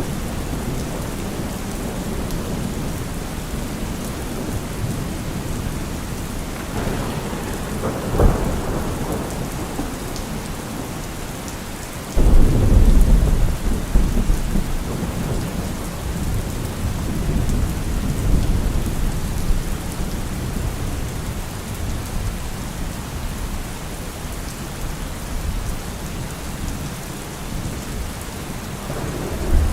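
Heavy rain falling on a car roof, with thunder. A sudden loud clap about twelve seconds in rolls on as low rumbling for several seconds, with a smaller rumble around eight seconds and another near the end.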